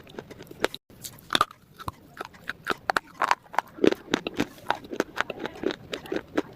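Crunchy food being bitten and chewed: irregular crisp crunches and crackles, several a second.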